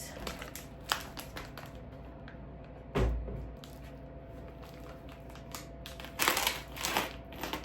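Packaging being handled and opened: scattered clicks, a dull thump about three seconds in, and rustling crinkles near the end.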